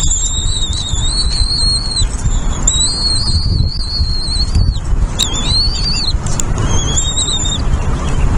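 Nestling birds' begging calls: about four long, thin, high-pitched calls in a row, each held for one to two seconds with a slight waver, over a steady low rumble.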